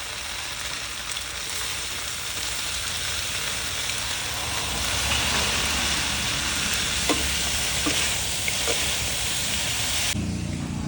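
Chicken legs frying with a steady sizzle. A few light clicks, likely a utensil against the pan, come in the second half, and the sizzle cuts off suddenly near the end.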